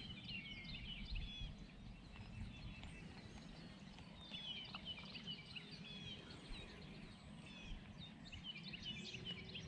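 Faint birdsong: several small birds chirping in short, quick repeated phrases, over a low steady background rumble.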